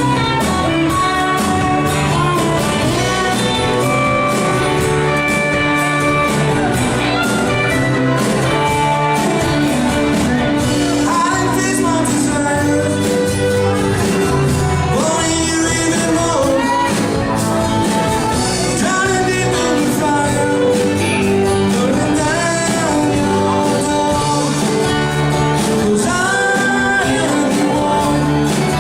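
Live rock band playing a song: a singer over guitars and drums with a steady beat.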